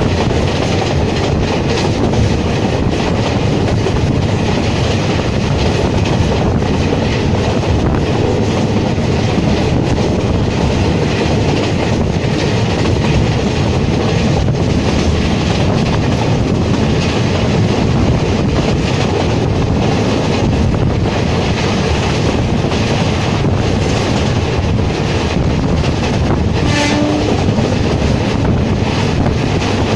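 Passenger train running at speed, heard from an open coach door: a steady rumble of wheels clattering over the rails, mixed with rushing air. A short horn note sounds near the end.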